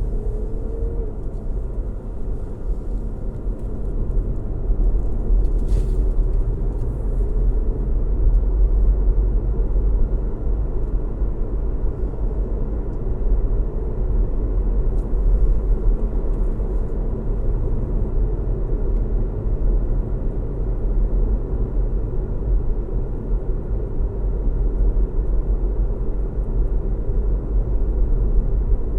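Car driving along a road: a steady low rumble of engine and tyre noise with a faint hum above it. A brief faint tick about six seconds in.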